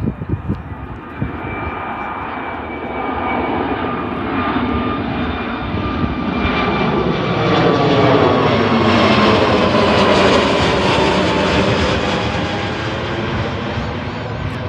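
Jet airliner passing close by, its engine noise swelling to a peak about two-thirds of the way through and then easing. A steady whine is heard as it approaches, and the whine falls in pitch as it goes by.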